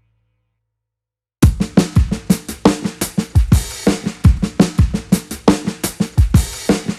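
Silence, then about a second and a half in a rock drum kit starts playing a fast beat of kick, snare and hi-hat: the drum intro of a music track.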